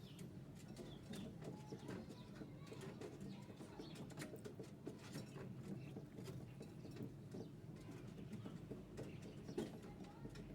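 A pair of Java sparrows calling, with many short clicking notes over a soft, steady low murmur.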